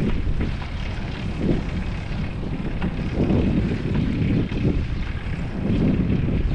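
Wind buffeting the microphone of a GoPro while riding a bicycle: a steady low rumble with scattered small rattles.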